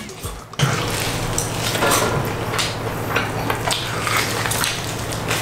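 Close-miked chewing and tearing into a grilled tomahawk steak, with wet, squishy mouth sounds and many small sharp clicks, over a steady low hum. The chewing gets louder about half a second in.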